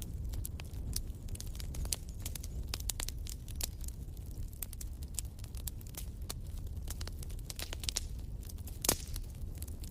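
Wood fire in a fireplace crackling: many sharp irregular pops and snaps over a low steady rumble of the flames, with one louder pop near the end.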